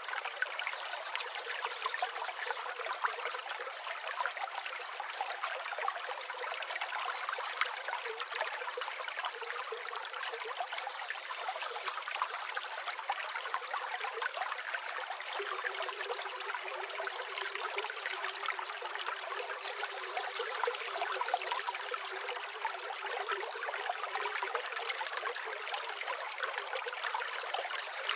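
River water flowing steadily, a continuous babbling rush with no low rumble.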